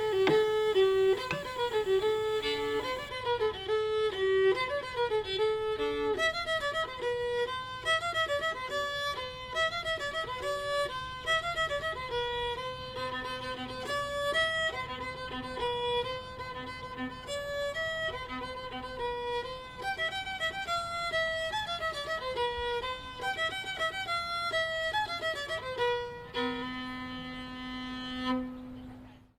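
Background music: a fiddle playing a lively melody, ending on a long held note that cuts off suddenly.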